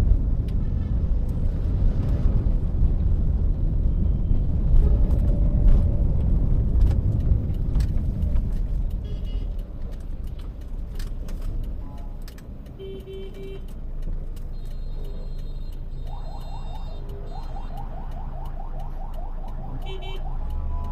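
Car cabin noise while driving: a loud low road-and-engine rumble for the first eight or nine seconds, then a quieter steady hum as the car slows. In the second half come short beeps and then a fast repeated rising electronic chirping, like a car alarm or a musical vehicle horn.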